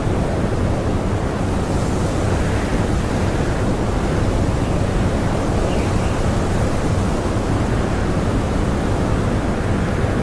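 Blizzard wind blowing hard and steadily: a deep, even rushing without distinct gusts or breaks.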